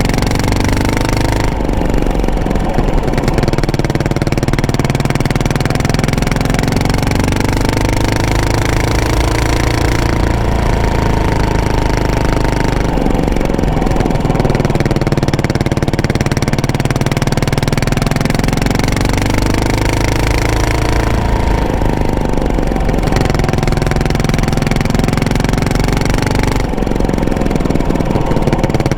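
Yamaha SR400's single-cylinder four-stroke engine running through an aftermarket exhaust while being ridden. Its pitch rises and falls with the throttle, changing every few seconds.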